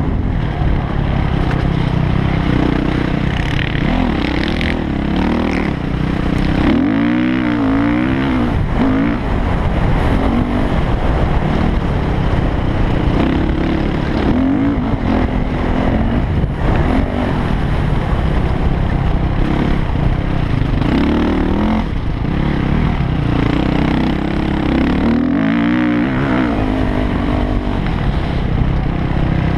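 Yamaha YZ450F four-stroke single-cylinder motocross bike riding hard, its engine revving up and dropping back again and again as it accelerates and shifts, over a constant heavy rumble.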